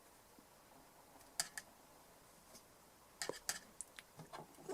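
A few light clicks and taps of small objects being handled on a workbench: two about a second and a half in, then a short run of them near the end.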